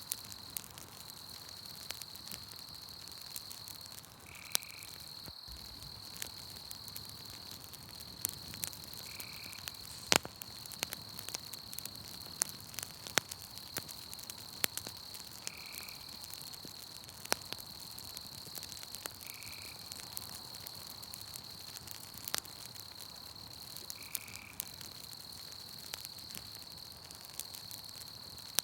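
Campfire crackling with scattered sharp pops, over a steady high-pitched night insect chorus. A short call, typical of a frog, repeats every four to six seconds.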